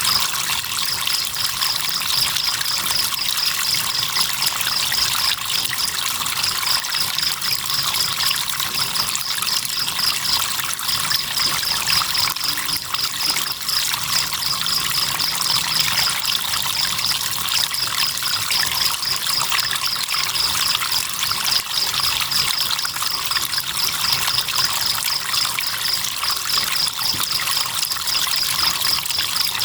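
River water running and trickling steadily, with crickets chirping in long runs of rapid high-pitched pulses broken by short pauses.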